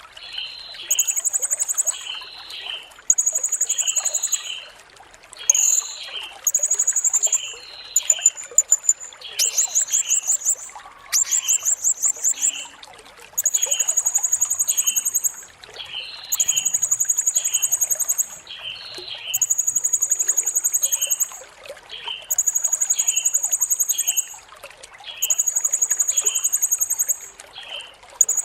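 Blue-crowned hanging parrot (serindit) singing: very high, thin trilled notes about one to two seconds long, repeated with short gaps, with a quicker run of rapid notes about a third of the way in. Short chirps come about twice a second underneath throughout.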